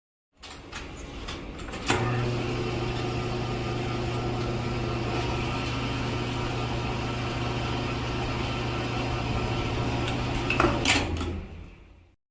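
A small electric motor switched on with a click, running with a steady hum, then stopping with a brief clatter.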